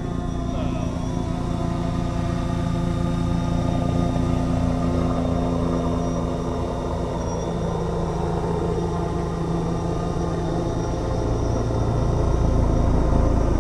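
A motor running steadily with several held tones that shift in pitch partway through, getting louder near the end.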